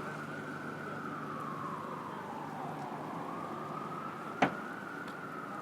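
Emergency vehicle siren wailing, its pitch rising and falling slowly, over steady street traffic noise. One sharp click sounds about four seconds in, the loudest moment.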